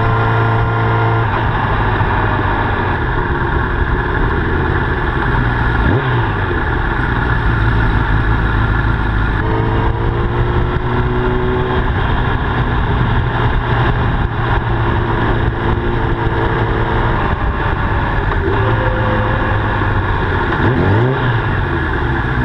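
Honda CBR1000RR's inline-four engine running under way, heard from a camera mounted on the motorcycle. The engine note holds steady with several step changes in pitch, and a brief sweep up and down twice.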